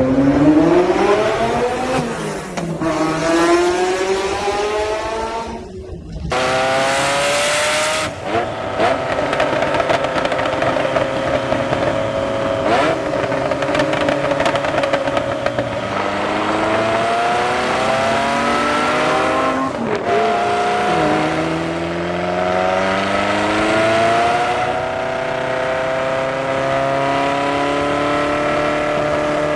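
Ferrari F40's twin-turbo V8 accelerating through the gears. The pitch climbs, drops back at upshifts about 2, 6 and 20 seconds in, and holds nearly steady at high revs for long stretches in between.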